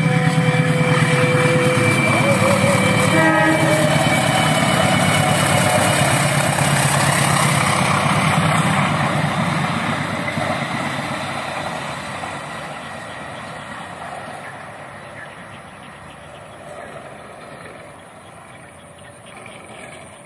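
CC 201 diesel-electric locomotive and its passenger coaches passing at speed: engine running loudly with wheel and rail noise, and short horn notes in the first few seconds. The sound fades steadily after about ten seconds as the train draws away.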